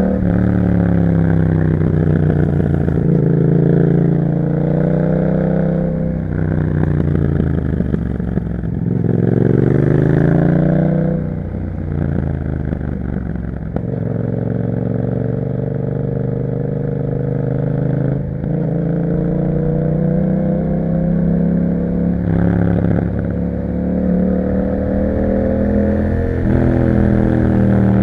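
2021 Yamaha MT-07's parallel-twin engine through an Akrapovič exhaust, under way: its pitch climbs as it pulls and falls away at gear changes or when the throttle closes, several times over, with a stretch of steady cruising in the middle and another climb near the end.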